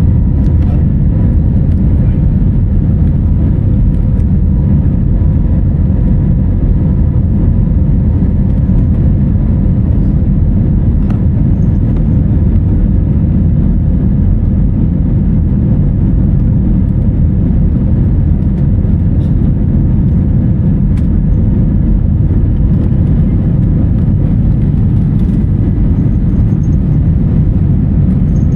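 Airliner cabin noise: a loud, steady low rumble of jet engines and airflow, with a faint steady hum over it.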